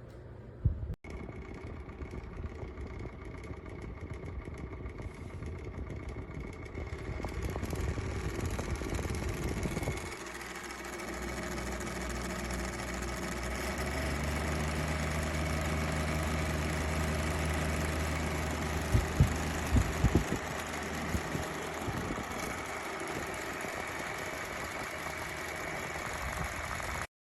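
Dreo Lynx S table fan running: a steady rush of air with a motor hum and whine, growing louder about a quarter of the way in and shifting again soon after. A few short knocks about two-thirds of the way through.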